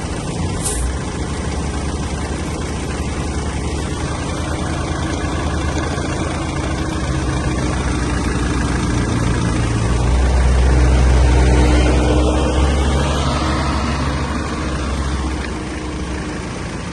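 Mercedes-Benz OM611 2.2-litre common-rail four-cylinder diesel running on test, steady at first, growing louder to a peak about two-thirds of the way through, then easing back.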